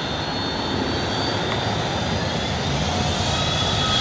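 Airbus Beluga transport jet's engines running steadily as it taxis and turns on the runway: a steady jet rush with a thin high whine over it, growing a little louder near the end.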